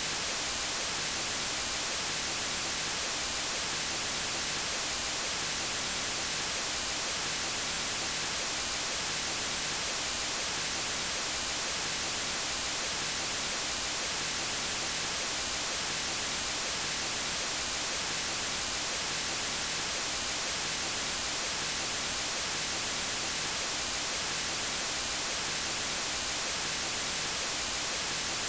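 Steady, unchanging white noise: an even hiss, strongest in the high frequencies, with no breaks or other sounds.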